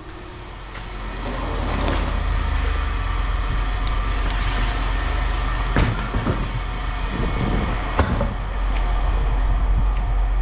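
An engine running steadily, building up over the first couple of seconds, with a few short knocks about six and eight seconds in.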